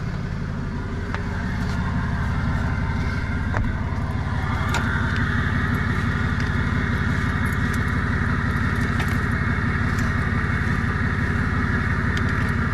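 Tow truck's engine running steadily with a regular low throb. It grows louder about two seconds in and again around five seconds in, with a few light clicks.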